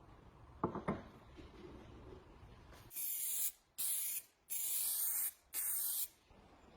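Aerosol spray can sprayed in four short bursts of hiss, each about half a second to a second long, preceded by a brief clatter near the start.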